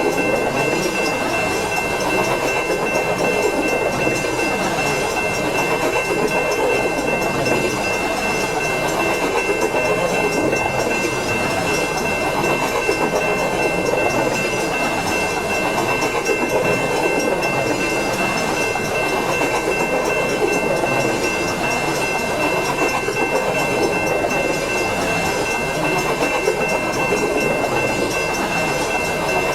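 Railway train passing: a steady rumble and rattle of rolling cars, with a steady high-pitched squeal of several tones held throughout.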